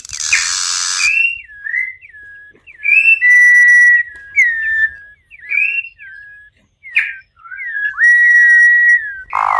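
Campo troupial (corrupião) singing: short whistled notes that slide up and down, repeated over and over, with two long, steady held whistles, a harsh raspy note at the start and another near the end.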